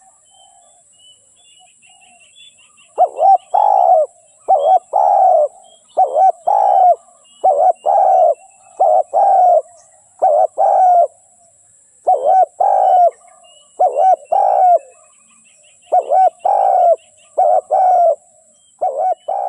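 Spotted dove cooing: short low coos in repeated phrases, starting about three seconds in, with faint twittering of small birds behind.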